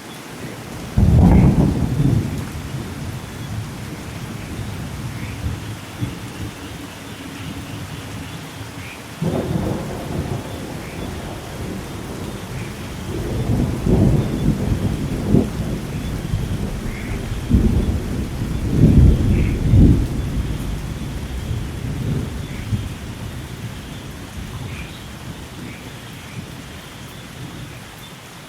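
Thunderstorm: steady rain with thunder. A sudden loud clap about a second in, another about nine seconds in, then long rolling rumbles in the middle that die away toward the end.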